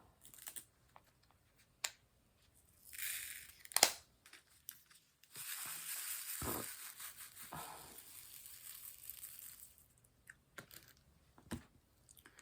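Crinkling and rustling, most likely the plastic of the diamond painting canvas's cover film or drill bags being handled, with a long stretch of crackling from about five to ten seconds. Scattered sharp clicks and taps, the loudest just before four seconds.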